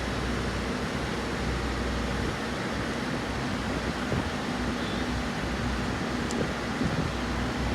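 Steady mechanical hum and hiss with no distinct events, and a faint click about six seconds in.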